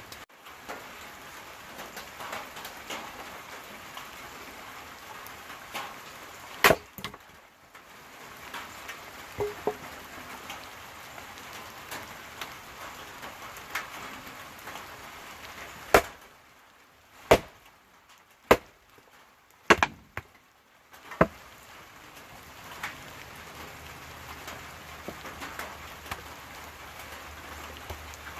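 Wood snapping and cracking as sticks are broken up for kindling: about six sharp, loud cracks, most of them bunched between sixteen and twenty-one seconds in, over a steady hiss of rain.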